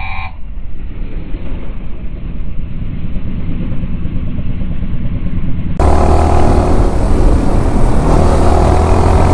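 Yamaha R15 V4 motorcycle's single-cylinder engine running under way, with heavy wind rumble on the microphone. About six seconds in the sound abruptly turns fuller and the engine note climbs as the bike accelerates.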